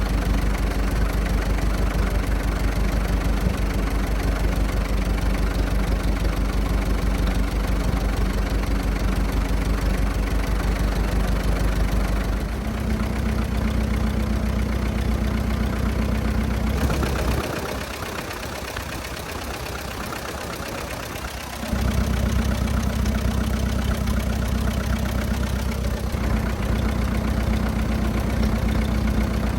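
1924 Fordson F tractor's four-cylinder engine running steadily. Its note shifts about twelve seconds in, and for a few seconds just past the middle it goes quieter as the low rumble drops away, then comes back.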